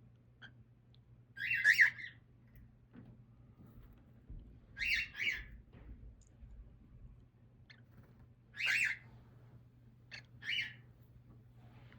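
Baby cockatiel chick giving short, raspy calls in four bursts, two of them doubled, over a faint steady low hum.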